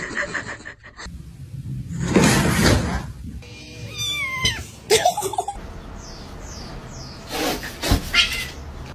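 Domestic cat meowing, with falling calls about four seconds in. A loud burst of noise comes about two seconds in.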